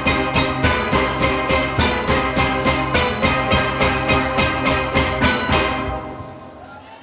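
Steel orchestra of steelpans with drums playing to a steady beat, then stopping together about five and a half seconds in, the pans ringing on and fading away.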